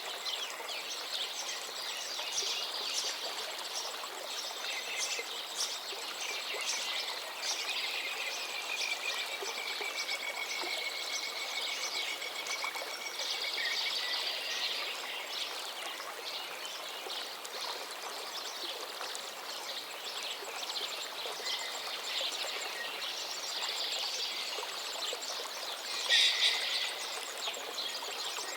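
Forest river flowing steadily with many songbirds singing over it. A long, slightly falling whistled note comes about a third of the way in, and a louder burst of song comes near the end.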